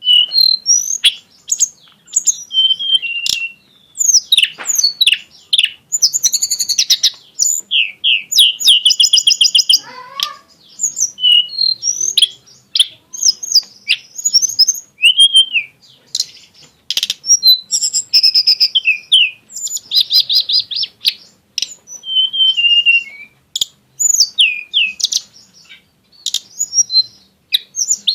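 A tledekan gunung songbird singing a long, varied song of short whistled phrases, broken several times by fast trills of rapidly repeated notes, the bursts that keepers call its 'shots'.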